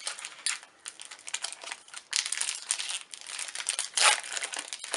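Foil booster pack wrapper crinkling as it is handled, in irregular bursts, loudest about four seconds in.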